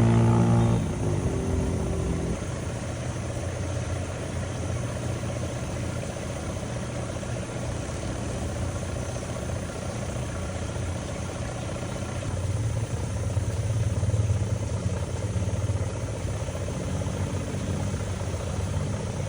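Steady running of a passenger riverboat's diesel engine, a continuous low hum that swells louder about two-thirds of the way through. A brief, louder pitched tone sounds right at the start.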